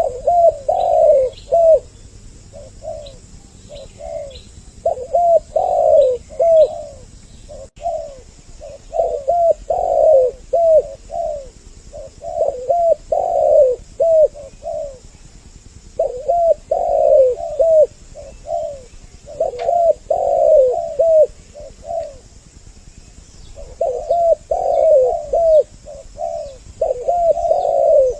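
Spotted doves (tekukur) cooing: repeated phrases of several rough coo notes every few seconds, at times overlapping as two birds call together, used as a lure call. Faint high chirps from small birds sound in the background near the start and again near the end.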